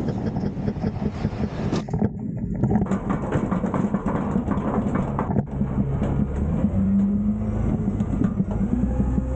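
Autocar/Heil Freedom Half/Pack front-loader garbage truck's engine running under load to drive the hydraulics while it dumps a large bin, with clattering through the first half. It settles into a steadier, higher-revving tone about halfway through.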